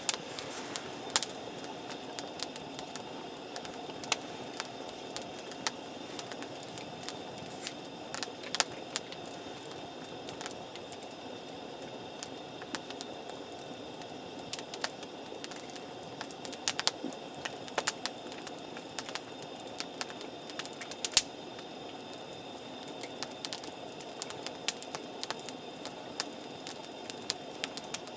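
Wood campfire burning: irregular sharp crackles and pops over a steady low rushing noise.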